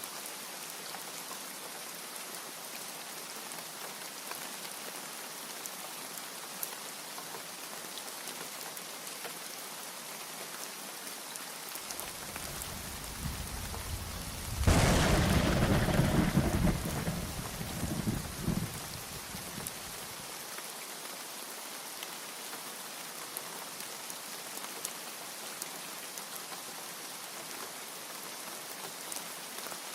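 Steady rain falling throughout, with a thunderclap about halfway through: a low rumble builds, breaks into a sudden loud crack, then rolls on for a few seconds and dies away.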